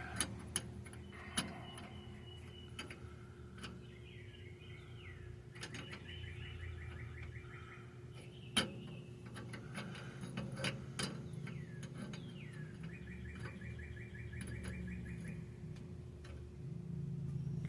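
Scattered light metallic clinks and taps as steel bearing races and tools are handled, the loudest about halfway through, with birds chirping in repeated trills in the background and a faint steady hum.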